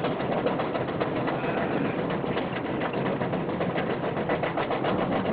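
Roller coaster train climbing the lift hill: rapid, steady clicking and clanking of the lift chain and anti-rollback dogs on the Chance Rides Hyper GT-X coaster.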